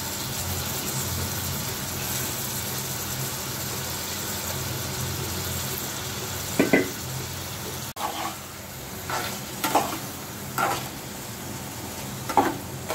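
Onions and spices frying in a steel pot, with a steady sizzle. From about halfway on, a spoon scrapes against the pot in a series of short stirring strokes.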